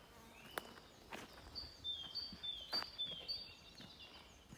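A songbird singing a run of short, high, falling notes, with a few sharp clicks of footsteps.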